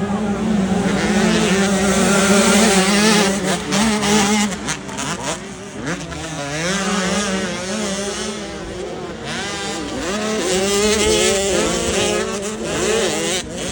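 Several motocross bike engines revving up and down at once, their pitches rising and falling over one another.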